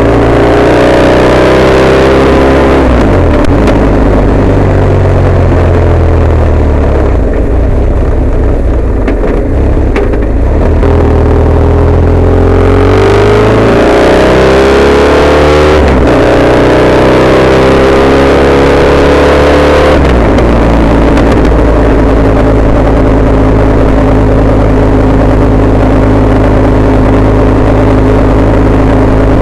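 Motorcycle engine running under way, recorded loud through a bike-mounted camera's microphone. Its pitch drops about three seconds in, climbs again as it accelerates between about twelve and sixteen seconds, and then holds steady while cruising.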